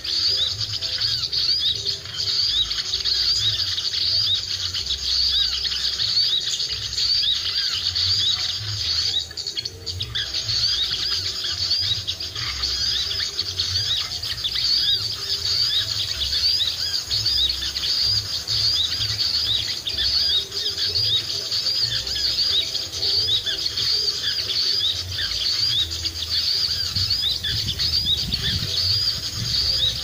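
Small birds chirping rapidly and without a break, many short high notes a second, with a low wind rumble on the microphone.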